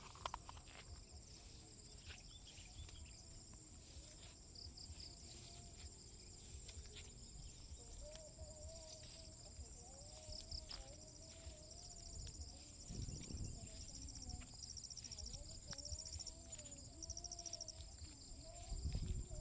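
Countryside insects: a steady high-pitched drone with short pulsed chirp trains repeating over it, and faint footsteps.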